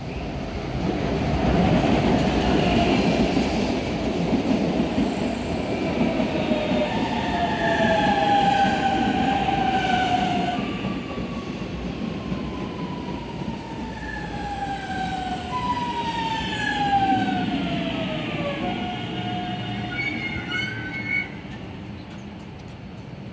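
Electric commuter train running past on the rails, with a steady rumble and several whining tones that glide downward in pitch, as when a train is slowing. The sound drops back a little after twenty seconds.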